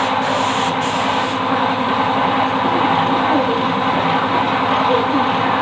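Engine running steadily with a loud, dense mechanical noise.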